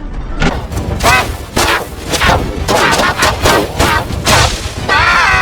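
Heavily distorted, effects-processed cartoon soundtrack: a rapid series of loud blasts and crashes mixed with warbling, pitch-bent cries. Near the end a sustained wavering pitched tone takes over.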